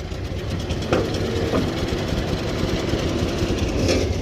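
Engine idling steadily with a low, even rumble, most likely the loader's engine, with a couple of light clanks about a second in.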